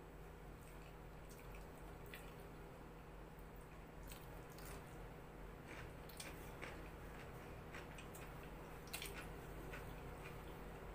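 Faint chewing and mouth clicks of people eating flatbread and curry by hand: scattered short sharp clicks over a steady low hum.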